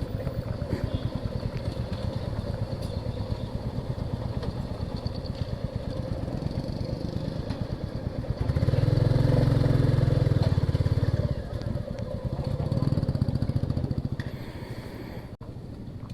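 Motorcycle engine running under way over a rough dirt trail, steady for the first half. It swells louder for a few seconds past the middle and again shortly after, then eases off near the end.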